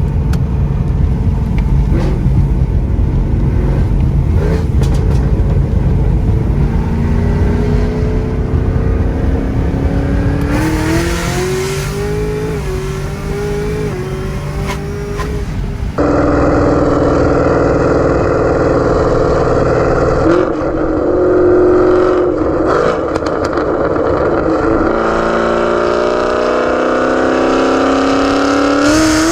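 Camaro ZL1 1LE's supercharged V8, with cam, headers and Corsa Extreme exhaust, loud under hard acceleration runs. The pitch climbs slowly with steps through the gears. About halfway through the sound jumps suddenly louder and then rises again near the end.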